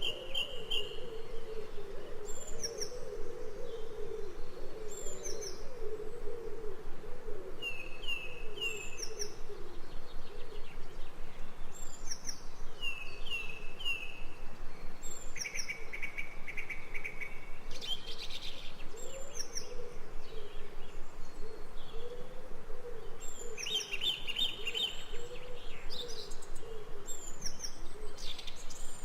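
Jungle ambience of several birds calling: short high chirps and whistled notes every second or two, with longer trilled calls twice. A continuous low wavering tone runs underneath.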